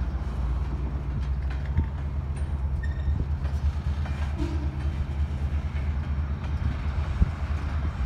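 Covered hopper cars of a freight train rolling slowly past: a steady low rumble of wheels on rail, with occasional sharp clicks and a few brief faint squeaks.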